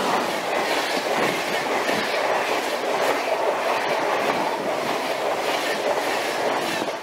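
A train passing close by at speed: a steady, loud rush of wheel and rail noise that holds throughout and falls away sharply near the end.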